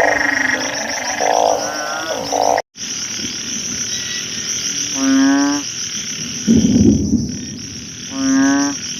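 Banded bullfrogs calling in their breeding chorus after rain: two long, deep calls, each about half a second, about five and eight seconds in. Under them runs a steady high-pitched insect chorus, with smaller frogs calling early on. A brief rustling noise comes about six and a half seconds in.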